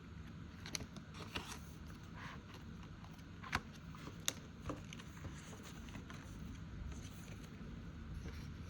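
Faint handling of paper budget envelopes: soft rustles and a few small clicks and taps, the sharpest about three and a half and four seconds in.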